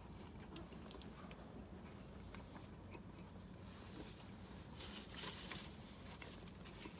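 Faint close-up chewing of a bite of soft pumpkin muffin, with small wet mouth clicks scattered through it.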